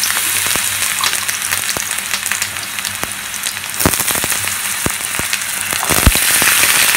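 Cubes of brinjal and potato sizzling steadily in hot mustard oil in a kadai, freshly dropped in to fry, with a few sharp pops and clicks.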